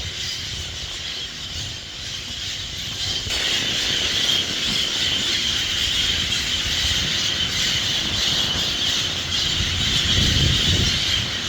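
A large flock of birds calling all at once, a steady shrill din of many voices making a lot of noise, that grows louder about three seconds in. A low rumble joins near the end.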